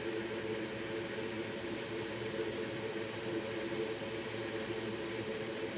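Steady whir and hiss of small fan-driven equipment on a soldering bench, with a few steady humming tones underneath and no change throughout.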